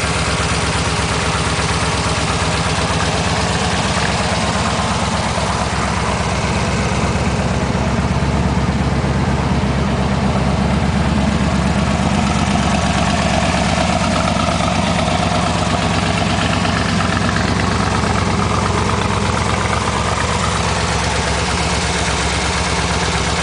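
1972 Chevrolet LT-1 350 small-block V8 idling steadily with the hood open.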